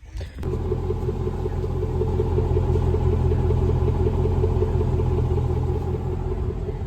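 A car engine starting from cold, catching about half a second in and then running steadily with an even pulsing note. It is a brutal cold start of a car that has been sitting.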